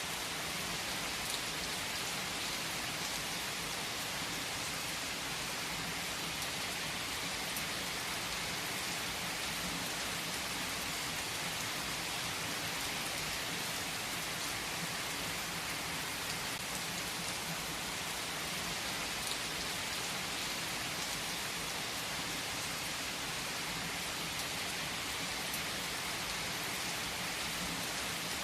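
Steady rain falling: an even hiss with no break. It carries a few faint, scattered clicks.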